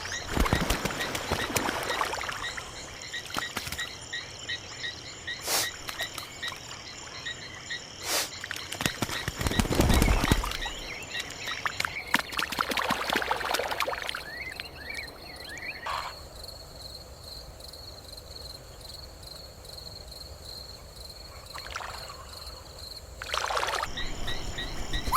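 Outdoor nature ambience: a steady chorus of high-pitched chirping calls that breaks off and resumes at several cuts, with a few short sharp noises and a louder rustling burst about ten seconds in.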